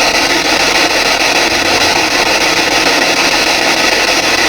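Spirit box (P-SB7) sweeping through radio stations, giving a loud, steady wash of radio static.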